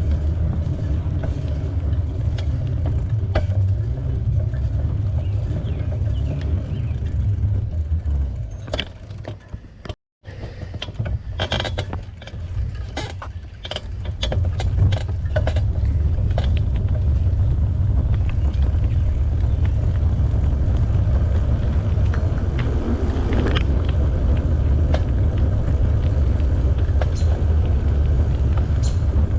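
Wind rumbling on the camera microphone while riding a bike, with tyre noise from the trail. It eases for a few seconds around the middle, with a run of sharp clicks and taps, then picks up again.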